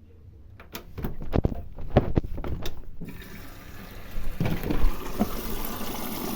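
Indesit IWBC6125 washer dryer starting its wash cycle: a few clicks and knocks, then, about three seconds in, water suddenly starts rushing in through the inlet valve and runs steadily as the machine fills.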